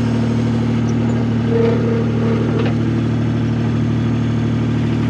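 Skid steer engine idling steadily.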